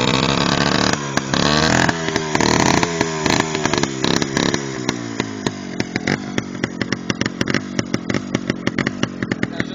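Minsk motorcycle's small two-stroke single-cylinder engine being revved several times, the pitch dropping back after each blip. About six seconds in it settles to a lumpy idle with an even popping beat.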